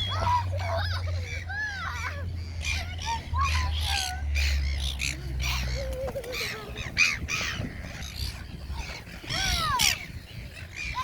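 A flock of birds calling over one another: many short, harsh calls that rise and fall, packed close together throughout.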